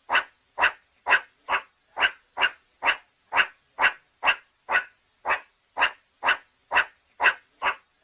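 Dog barking in a steady, evenly spaced run of short barks, about two a second.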